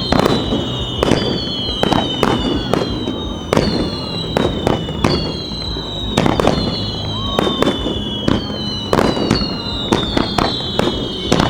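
Aerial fireworks going off in rapid succession: many sharp bangs, overlapped by shell whistles that each glide slowly down in pitch, a new one starting about every second.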